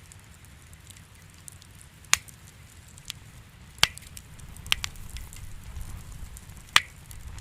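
Wood fire crackling in a fireplace: a steady low rumble of flame under frequent small ticks and crackles, with four loud sharp pops of burning wood.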